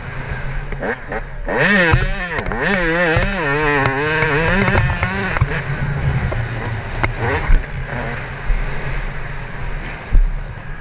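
Yamaha YZ125 single-cylinder two-stroke engine revving, its pitch swooping up and down again and again as the throttle is worked, then running more evenly.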